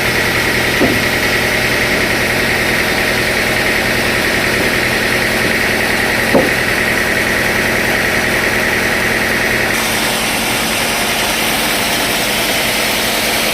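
Sawmill machinery running steadily, an engine's low pulse under a high whine; the whine and the lowest rumble drop away about ten seconds in. Two short knocks, about one second and about six seconds in.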